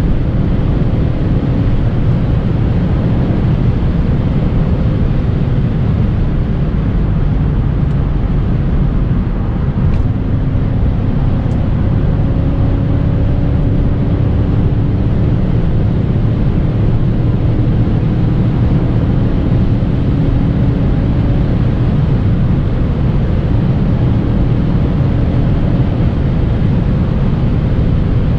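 BMW E39 540i's V8 running at a steady, near-constant pitch while cruising, under heavy road and wind noise heard from inside the car.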